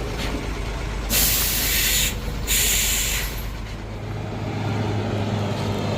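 Heavy truck's air brakes hissing in two bursts of about a second each, over the low hum of diesel engines running.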